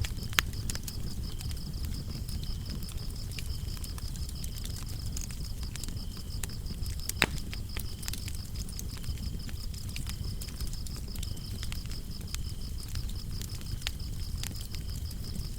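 Wood fire crackling with scattered sharp pops over a low rumble of burning, while crickets chirp in a steady high pulsing trill, with a second, lower cricket trill coming and going.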